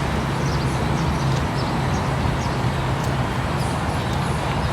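Steady outdoor background noise with an even low hum and a few faint high chirps.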